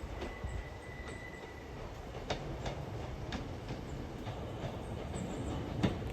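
Passenger train rolling slowly into a station, running with a steady low rumble while its wheels click over rail joints several times. A faint high wheel squeal comes in the first second or so.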